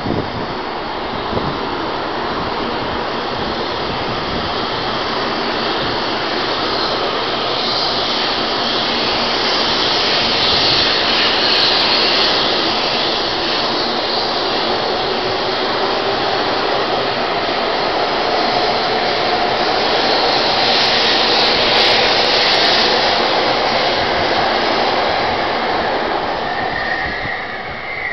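THSR 700T high-speed trainset pulling out of the station, its cars sliding past close by with a steady loud rush of wheels and air. The sound builds through the middle and eases near the end as the last car moves off.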